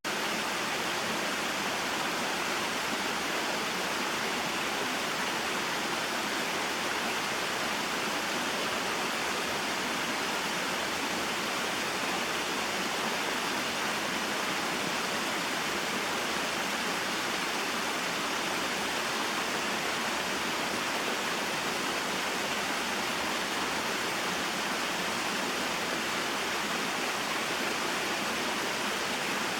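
Small mountain waterfall and stream, water splashing and flowing steadily.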